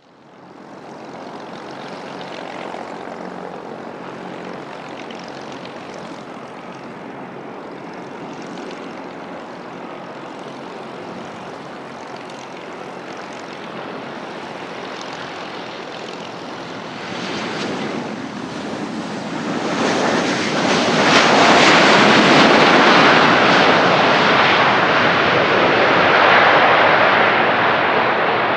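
Boeing 737-700's CFM56-7B turbofan engines as the jet comes in to land: steady jet engine noise that grows much louder about twenty seconds in and stays loud.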